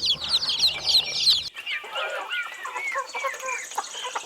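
Domestic chicks peeping: a dense flock of high, rapid peeps, then about a second and a half in a sudden cut to a second recording of lower, more widely spaced chirps.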